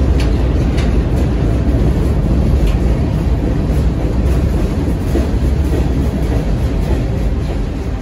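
CSX freight train's boxcars and refrigerator cars rolling past close by: a steady, loud rumble of steel wheels on rail, with a few sharp clicks in the first three seconds.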